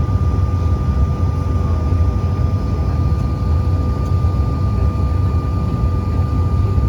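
Cabin noise inside a regional jet with its engines running on the ground: a steady low rumble with a thin, constant whine.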